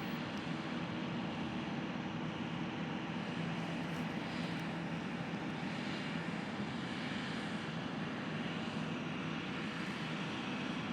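Large farm machinery engines running steadily in the field, a continuous even hum with no breaks or changes.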